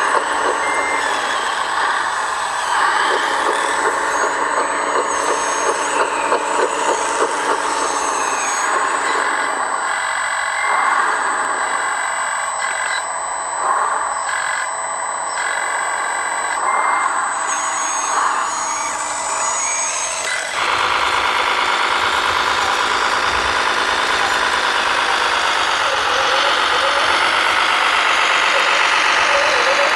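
Radio-controlled model construction machines running: the whine of their electric motors and hydraulic pumps mixed with sound-module engine noise. About 20 seconds in it changes abruptly to a different steady running note that rises and falls a little.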